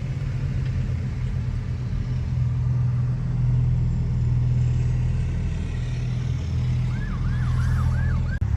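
A car driving, a steady low engine drone. Near the end comes a short warbling tone, about five quick rising sweeps in a row.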